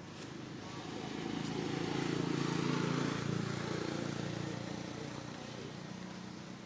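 A motor vehicle driving past, its engine and road noise swelling to a peak about two to three seconds in, then fading away.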